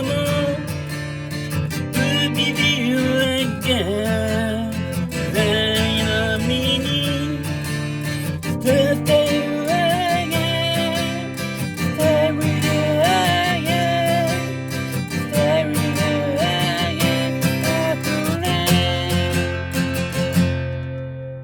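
Music: acoustic guitar strumming steadily under a wavering melody line, with no words. It fades out near the end.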